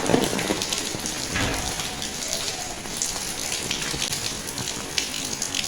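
Steady rain falling on hard surfaces, with many close drops hitting sharply.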